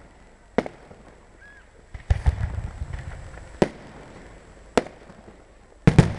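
Aerial fireworks bursting overhead: a series of sharp bangs a second or so apart, with denser clusters of bangs and a low rumble about two seconds in and again near the end.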